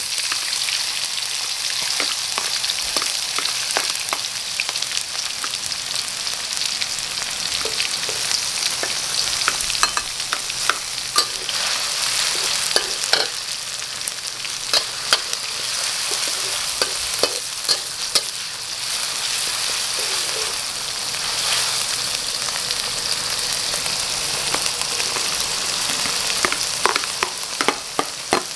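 Chopped turmeric, ginger, shallots and chillies frying in hot oil in a wok: a steady sizzle. A metal spatula scrapes and clinks against the wok now and then as they are stirred, most often in the middle and near the end.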